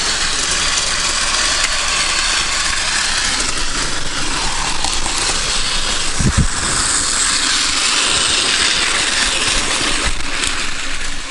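Several Takara Tomy Plarail toy trains running together on plastic track: a steady whirring rattle from their small motors and wheels. A low thump about six seconds in.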